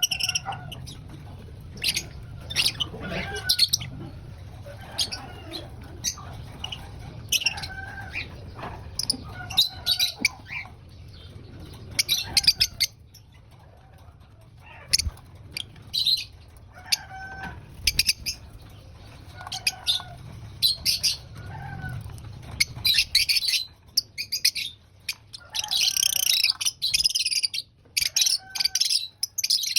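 Lovebirds chirping: short, sharp, high calls scattered at first, then a dense run of chirping in the last few seconds.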